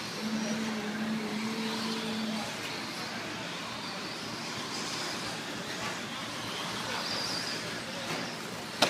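Radio-controlled electric stock trucks racing around the track: a steady wash of motor whine and tyre noise, with a brief low hum in the first couple of seconds and a sharp click near the end.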